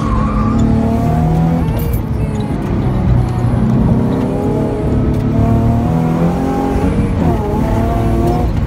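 Honda J32A2 3.2-litre V6 in a swapped Mazda Miata, heard from inside the car, running hard, its pitch stepping up and down as the throttle changes. A brief tire squeal comes right at the start.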